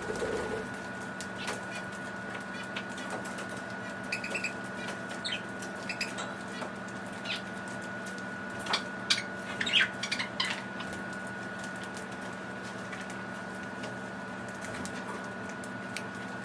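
Pet budgies (budgerigars) giving short scattered chirps, mostly in the middle, with wings flapping as they fly in and land, over a steady faint high-pitched whine.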